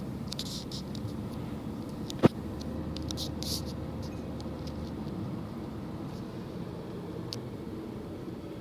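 Steady low rumble of a car driving, with a single sharp click about two seconds in.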